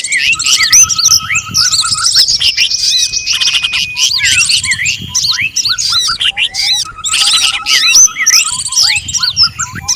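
A dense, layered mix of small songbirds' calls: fast chirps, quick rising and falling whistles, a repeated trill and a held whistle, several species at once. This is a bird-trapping lure track.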